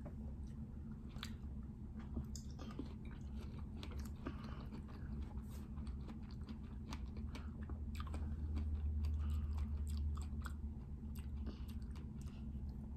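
Close-up chewing of syrup-dipped strawberries, wet mouth sounds with many small scattered clicks and crunches, over a steady low hum.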